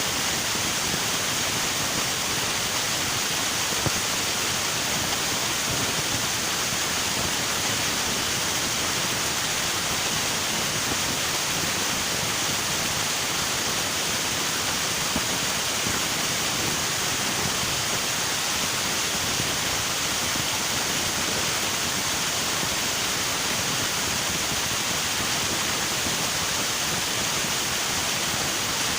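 River water flowing: a steady, even rush with no breaks or separate sounds.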